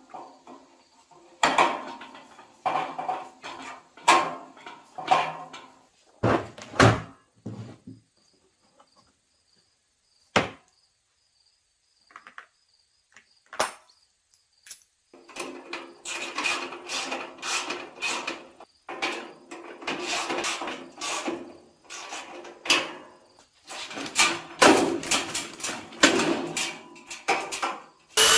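Workshop handling noises: a series of knocks, taps and short scraping strokes, in clusters, with a silent stretch in the middle.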